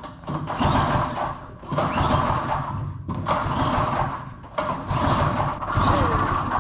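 Small single-cylinder go-kart engine being pull-started over and over, about five pulls a second or so apart, each turning it over without it catching: the kill switch is still engaged.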